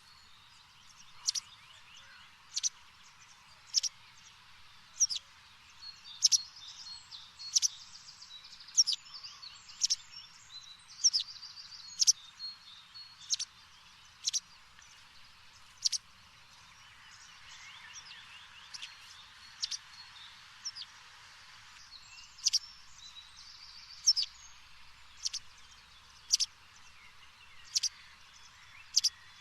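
Small birds chirping: a sharp high chirp repeats about every second and a quarter, with softer quick trills between, over a steady faint hiss. The chirps pause for several seconds past the middle.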